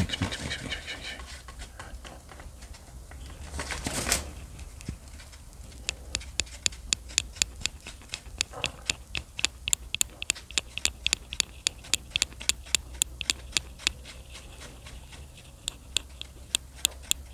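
Two-part epoxy compound being mixed by hand: a rustle about four seconds in, then a steady run of light, sharp clicks, about three a second, as it is worked.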